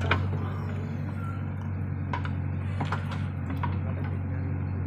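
Diesel engine of heavy earth-moving machinery running steadily at a low, even pitch. Three short sharp clanks come about two, three and three and a half seconds in.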